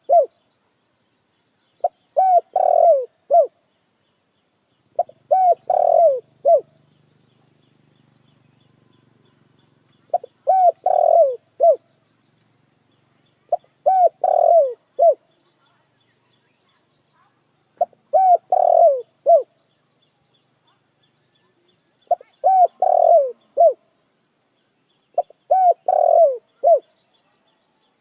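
Spotted dove cooing: a phrase of several cooing notes, repeated seven times at intervals of about four seconds, with a longer gap between the third and fourth phrases.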